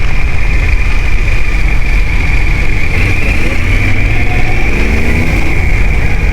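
Off-road motorcycle engine running under way, under a heavy low rumble and a steady high whine; the engine note rises briefly a little past the middle.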